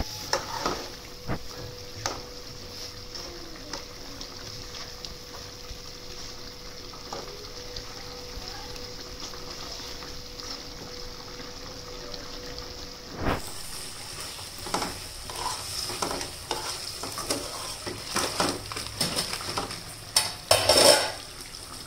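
Chicken masala sizzling in a metal kadai on a gas burner while a metal spoon stirs and scrapes through it. The spoon clicks and knocks against the pan, more often and louder in the second half.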